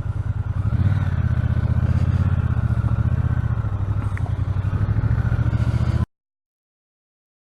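Motorcycle engine running under way, its exhaust pulsing steadily; the note gets louder about a second in and holds, then the sound cuts off abruptly about six seconds in.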